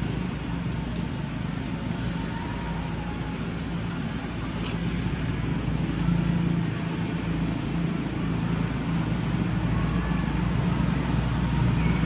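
A steady low machine hum under a constant background noise.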